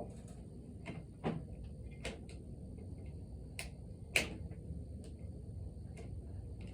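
Hand tools clicking and tapping against the metal parts of a small engine's cylinder head as the valves are being removed. The scattered light clicks include two louder knocks, about a second in and about four seconds in.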